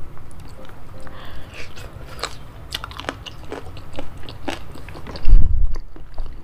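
Close-miked chewing of spicy boneless chicken feet, with scattered sharp crunches as the cartilage in them is bitten through. A loud low thump comes about five seconds in.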